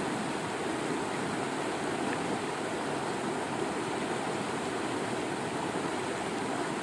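Waterfall and running stream water, a steady rushing that does not change.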